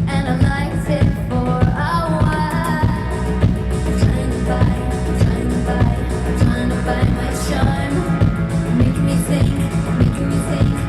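Live pop-rock band playing a song, with a steady drum beat under sustained melodic lines.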